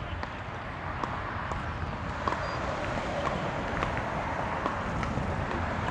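Wind buffeting the microphone outdoors, with faint scattered knocks.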